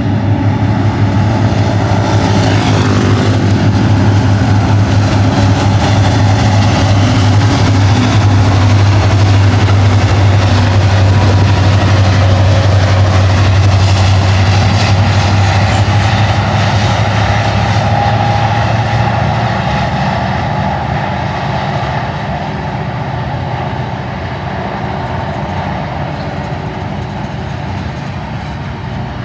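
Three Union Pacific EMD SD70-series diesel locomotives (an SD70AH and two SD70Ms, each with a 16-cylinder two-stroke 710 engine) pass close by, running loud with a deep, steady throbbing hum. From about twenty seconds in, the engine sound fades and the steadier rumble and clatter of loaded freight cars rolling over the rails is left.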